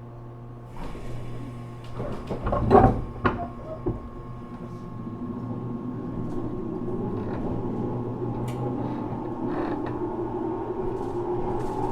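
Inside a JR Kyushu 415 series 1500 electric train car: the doors slide shut with a cluster of heavy clunks about two to three seconds in, then the train pulls away, its running rumble building steadily.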